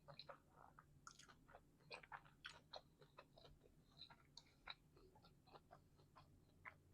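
Faint close-up chewing of a calzone: soft, irregular mouth clicks and smacks, several a second.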